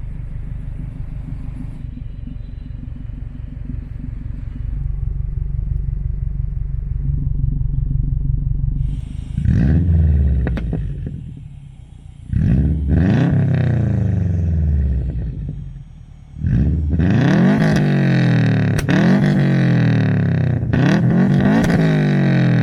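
2010 Subaru WRX's turbocharged flat-four engine on a stage 2 tune, running steadily at low revs, then accelerating in several hard pulls, its pitch climbing and falling back between them, the last two ending in sharp drops. The engine now makes full boost after new coil packs, though the owner notes a small hesitation remains.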